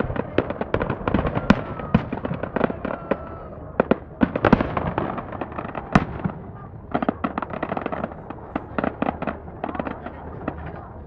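Fireworks display: a rapid, irregular volley of sharp bangs and crackles, densest in the middle and thinning out near the end.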